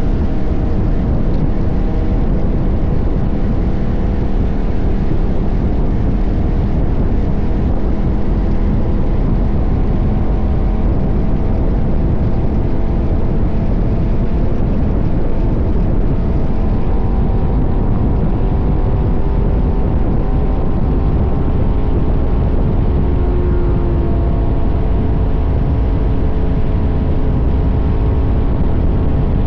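KTM 1190 Adventure's V-twin engine running steadily under way, its pitch drifting slightly, over a heavy low rumble.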